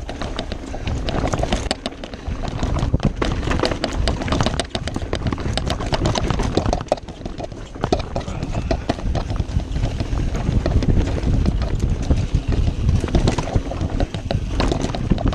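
Full-suspension mountain bike ridden over rough trail: a constant low rumble of tyres on dirt with dense, rapid clicks, knocks and rattles from the bike.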